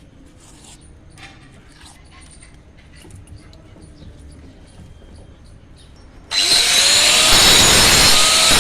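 A power tool working stone starts abruptly about six seconds in and runs loudly with a wavering whine; before that only faint light taps.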